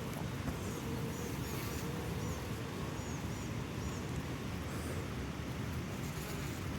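Honey bees humming around an open hive, with a faint, thin, steady piping tone in broken stretches over the first two seconds or so: a queen piping, typical of a colony preparing to swarm. Small birds chirp in the background.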